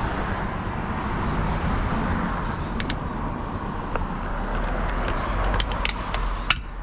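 Steady rushing, rumbling outdoor noise, with a few short sharp clicks in the second half.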